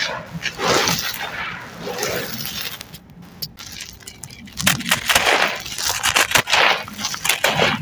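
Chunks of sand-cement floor crumbled by hand, a gritty crunching and crackling of many small cracks. The crunching eases off in the middle and comes back denser about two-thirds of the way in.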